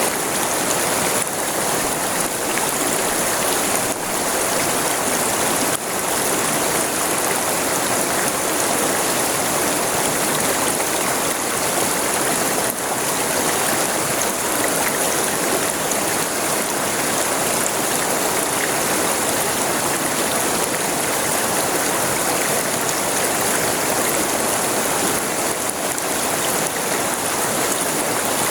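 River water running steadily over its bed, a continuous rushing and burbling without let-up.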